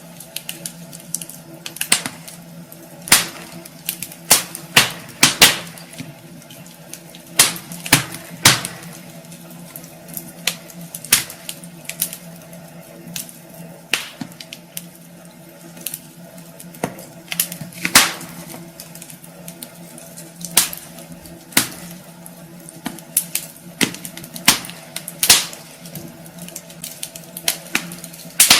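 Wood fire crackling in a fireplace: irregular sharp pops and snaps, some loud, spaced unevenly, over a faint steady low hum.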